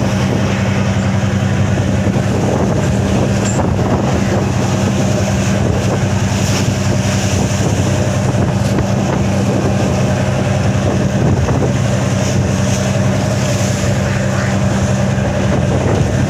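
Boat engine running at a steady speed, an even drone, with wind buffeting the microphone in gusts.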